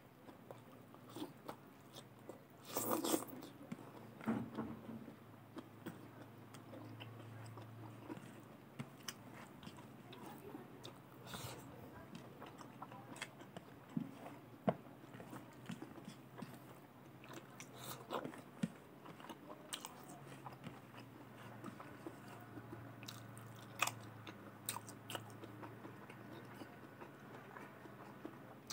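Close-up eating by hand: chewing and biting on rice and fried beans, in many short irregular clicks and crunches, with one louder burst about three seconds in. Fingers mix and scoop the rice on the plate between mouthfuls.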